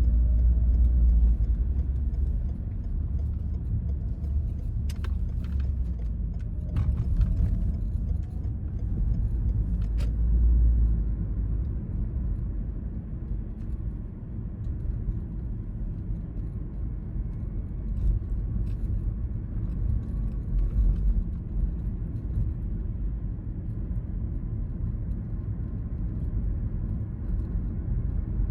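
Car driving: a steady low rumble of road and engine noise, with a faint rising whine as it picks up speed near the start and again about six seconds in. A few sharp clicks come in the first ten seconds.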